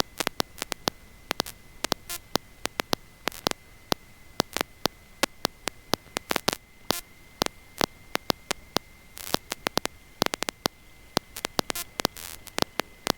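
Irregular crackling clicks of electrical static over a faint, steady high-pitched whine, the noise of the biplane's intercom audio feed.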